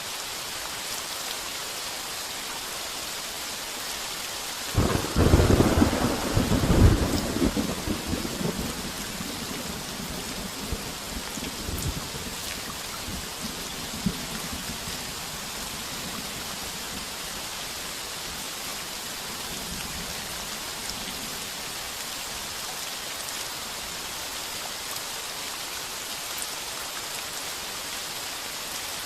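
Heavy rain pounding steadily on a tin roof, with a thunderclap about five seconds in that rumbles loudly for a couple of seconds and rolls away over the next several, and a fainter distant rumble later.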